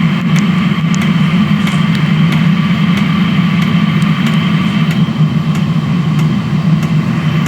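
Diesel air heater's burner and fan running steadily at full combustion, with faint irregular ticks over the steady sound. It is running on diesel to burn out a chamber caked with ash from waste engine oil.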